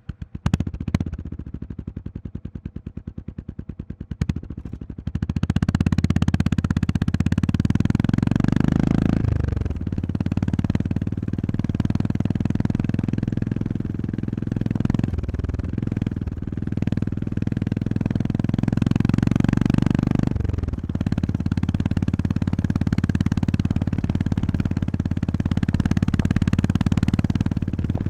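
Honda GB350S's air-cooled single-cylinder engine idling with an even beat, a click about four seconds in, then pulling away and accelerating, its pitch dropping briefly three times as it changes up through the gears.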